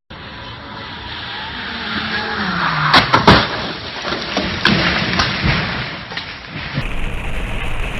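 Car road and engine noise building up, then a loud collision impact about three seconds in, a quick cluster of crashes followed by a few lesser knocks.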